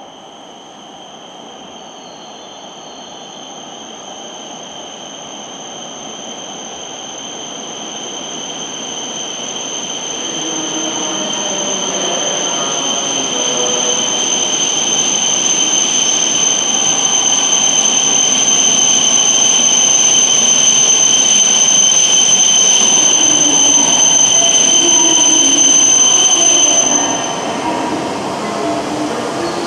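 E5 series Shinkansen train approaching and pulling in to a station platform: its running noise grows steadily louder for about twenty seconds under a steady high-pitched whine, then drops away suddenly near the end.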